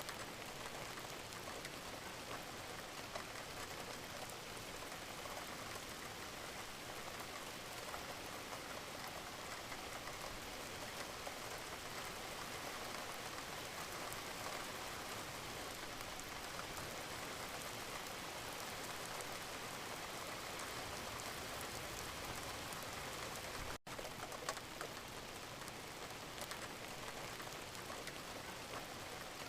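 Gentle steady rain, a dense even patter of drops falling on a surface. The sound cuts out for an instant about three-quarters of the way through, then carries on unchanged.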